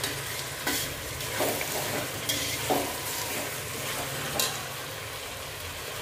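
Potatoes and onions sizzling in hot oil in a stainless steel pot while a metal spoon stirs them, scraping against the pot several times. The stirring stops about two-thirds of the way through, leaving the steady sizzle of the potatoes frying.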